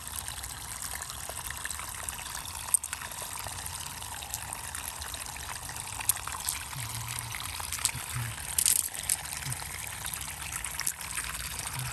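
Water trickling and pouring steadily, with a few sharp clicks. The loudest is a short burst about nine seconds in.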